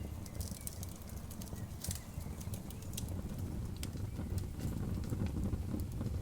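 Campfire crackling, with irregular sharp pops and snaps scattered throughout over a steady low rumble.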